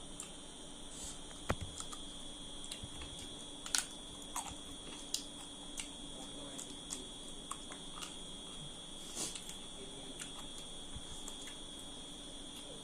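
Eating sounds: scattered faint clicks and smacks from chewing and handling food, a few of them sharper, over a steady background hum.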